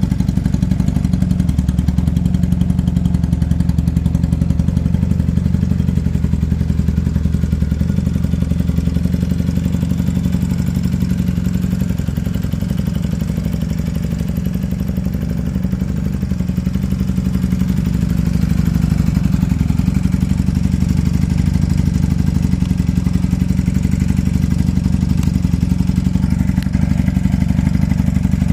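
Custom chopper motorcycle's engine running steadily at a low speed with a fast, even pulse, picking up slightly about two-thirds of the way in.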